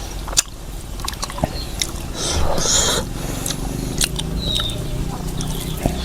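Close-miked chewing and mouth sounds of a person eating, with scattered wet clicks and smacks and a louder noisy stretch of eating about two to three seconds in.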